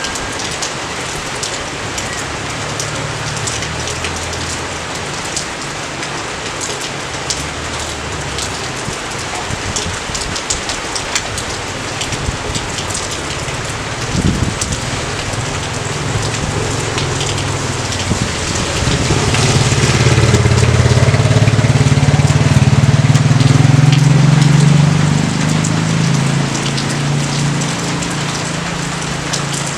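Steady rain falling, with many separate drops ticking close by. A low rumble builds about two-thirds of the way in, then fades near the end.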